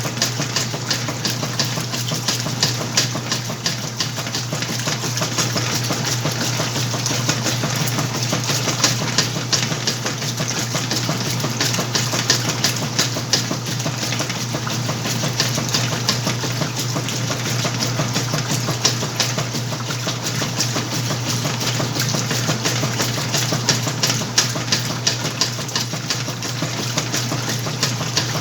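Whirlpool washing machine running through its wash cycle: a steady motor hum under a fast, continuous rattle and clicking.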